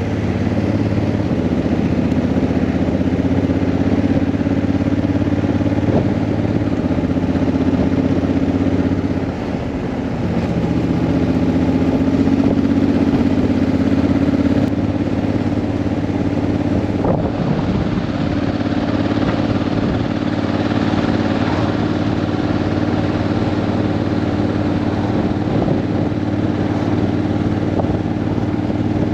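Honda CRF1000L Africa Twin's parallel-twin engine running steadily under way. About nine seconds in, the pitch and level drop briefly, then climb back and hold steady.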